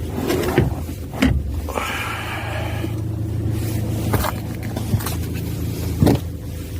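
2004 Hyundai Santa Fe engine idling steadily, with a few sharp clicks and knocks over it.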